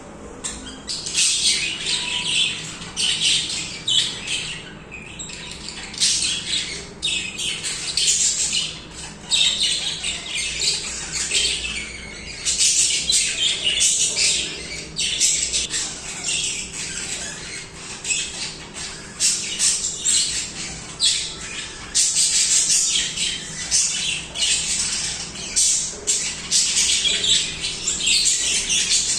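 A flock of pet budgerigars singing and chirping: continuous busy chatter full of short sharp calls, growing louder about a second in.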